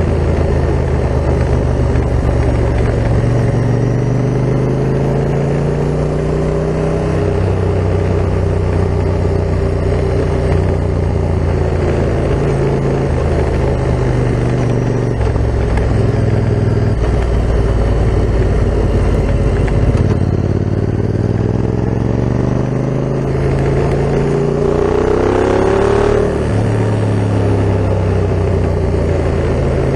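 Yamaha MT-07's parallel-twin engine through an Akrapovic full carbon exhaust, running while riding, its pitch rising and falling with the throttle. Near the end the revs climb steadily, then fall away abruptly.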